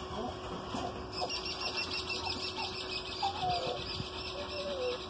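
Birds chirping in the trees: a rapid, evenly repeated high chirping starts about a second in, with a few lower gliding calls near the middle and end.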